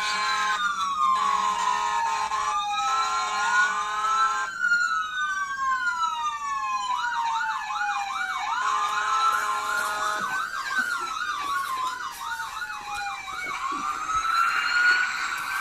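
Fire truck siren. It alternates between a slow rising-and-falling wail and a fast warbling yelp, with steady blasts of a horn tone, in the first few seconds and again midway.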